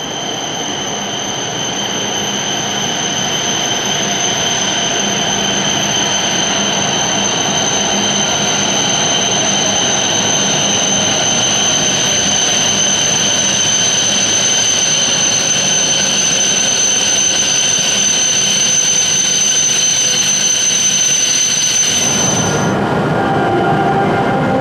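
Hokuriku Shinkansen train pulling into the station and slowing to a stop: a steady rumbling rush with a steady high-pitched whine over it. The whine cuts off about 22 seconds in as the train comes to a halt.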